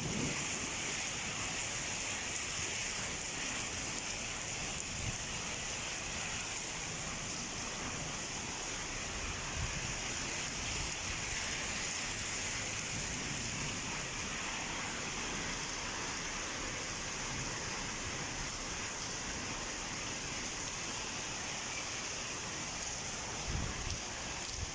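Heavy rain falling in a steady hiss, with a few faint, brief low knocks.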